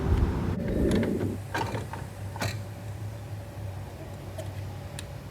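Hand tools and metal parts rattling and clicking during work on the car's A/C compressor lines, with a scraping rattle in the first second and a half and a few sharp clicks after it. A steady low hum runs underneath.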